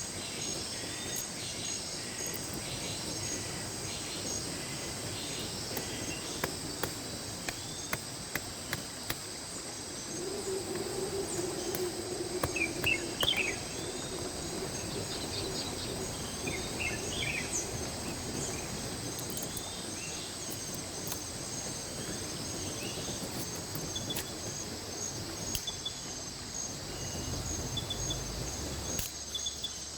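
Insects chirping steadily over the even rush of a mountain creek, with a few short bird calls partway through. A low hum joins for several seconds in the middle.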